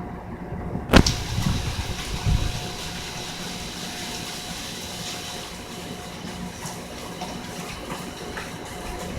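Hurricane wind and rain as a steady rushing noise, which grows brighter and fuller right after a sharp knock about a second in, with a faint steady hum underneath.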